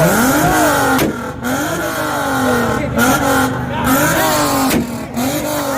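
Car engine revved hard again and again through a loud exhaust, its pitch climbing and dropping about five times, with sharp cracks from the exhaust between some of the revs.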